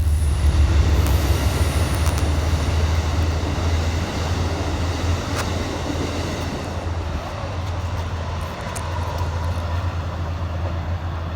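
Amtrak Empire Service passenger train led by a GE P32AC-DM locomotive running by on the rails, a steady low rumble with wheel and rail noise that slowly fades as it moves away. There is one sharp click about five seconds in.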